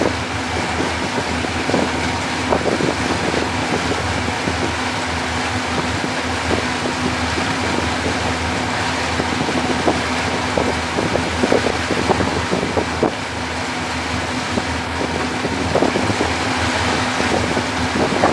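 Motorboat engine running steadily at cruising speed, a constant hum under a rush of wind and water noise, with irregular short buffets.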